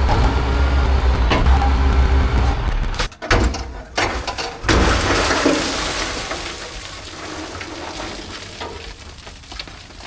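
Diesel engine of compact earthmoving equipment running under load, cutting back about three seconds in, then a rushing, pouring noise like loose millings sliding before the machine sound gradually fades.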